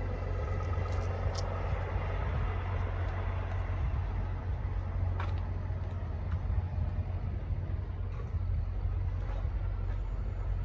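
Diesel truck engine idling steadily, a low even rumble, with a single faint click about five seconds in.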